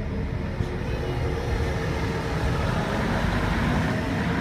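Passenger train pulling out and passing close along the platform: a steady rumble and rush of wheels on rails that grows a little louder over the last couple of seconds.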